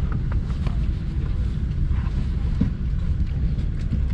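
Airliner cabin ambience on a Boeing 747-8 before takeoff: a steady low rumble of air-conditioning airflow, with a few faint clicks.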